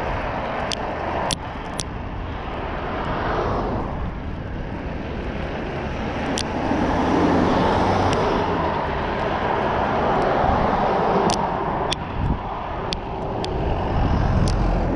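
Steady rush of wind and road noise from an e-bike riding uphill at speed, swelling louder through the middle, with scattered sharp clicks and rattles.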